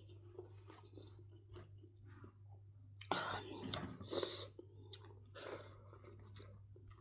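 A person chewing food close to the microphone, with many small wet mouth clicks and two louder noisy bursts about three and four seconds in. A steady low hum runs underneath.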